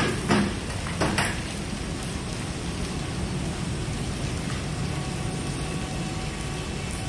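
Steady rain falling, with two sharp knocks in the first second and a half.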